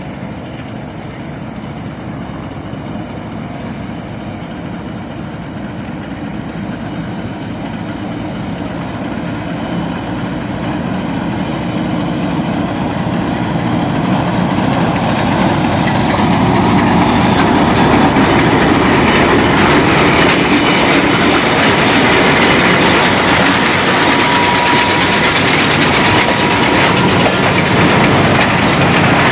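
Pakistan Railways diesel locomotive hauling the Mianwali Express into the station. The engine grows steadily louder as it approaches and passes about halfway through, then the passenger coaches roll past with a loud, steady rumble of wheels on rails.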